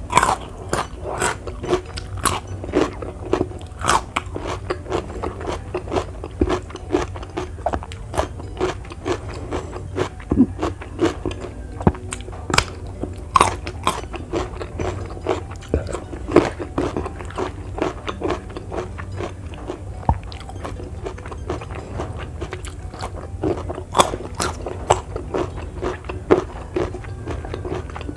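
Crunchy biting and chewing of raw vegetables, with sharp crunches about once or twice a second over a low steady hum.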